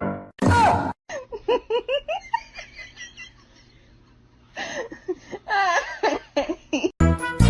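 A loud falling cry about half a second in, then a person laughing in short bursts, fading and picking up again. Music starts near the end.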